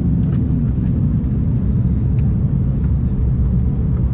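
Steady low rumble in the cabin of an Embraer E190-E2 on the ground, its Pratt & Whitney PW1900G geared turbofans running at low taxi power, with a few faint clicks over it.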